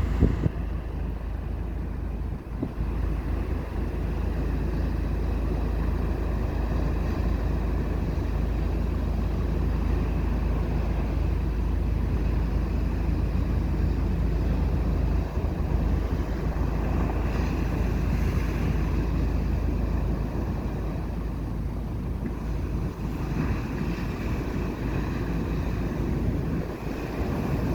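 Ocean surf washing onto a beach, largely covered by wind rumbling on the microphone in a steady low roar.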